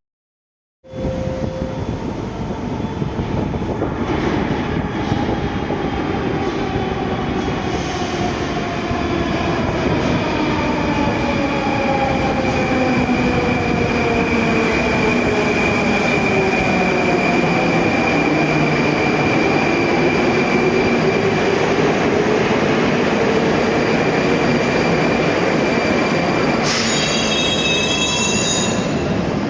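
Moscow metro 81-740/741 "Rusich" train running, heard from inside the car, starting about a second in. A steady rumble carries a whine from the traction drive that falls and then rises in pitch through the middle. A high wheel squeal comes near the end.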